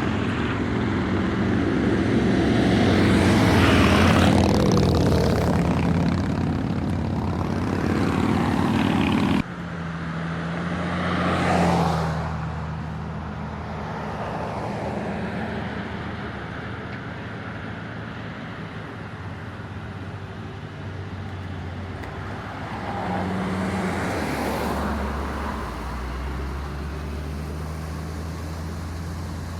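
Several vehicles driving past one after another, their engines running and swelling as each goes by. The sound drops suddenly about nine seconds in.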